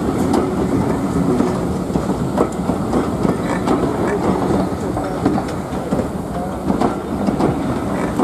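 Heritage steam-hauled train moving through a station, its wheels clicking irregularly over the rail joints.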